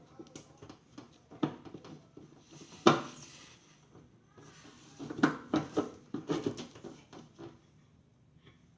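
Irregular clicks, knocks and clatter of hard parts being handled, with one sharp knock about three seconds in and a run of knocks around five to six seconds in.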